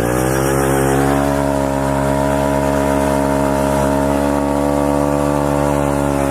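Pit bike engine revving up over about the first second, then held at a steady high rev for a burnout.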